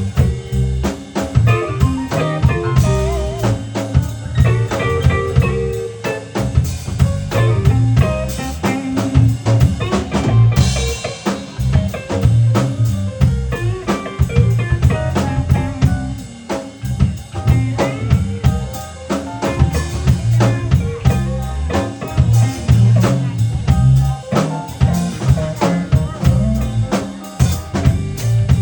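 Instrumental music played on keyboards over a steady drum beat.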